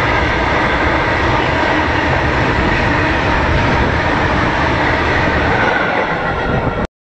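A train running past at close range: a loud, steady rumble and rail noise of its cars rolling by, cutting off abruptly near the end.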